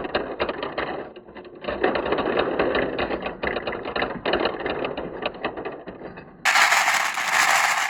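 Many glass marbles rolling and clattering down marble-run slopes: a dense, irregular stream of clicks and rattles. About 6.5 s in it switches abruptly to a brighter, hissier rolling rush.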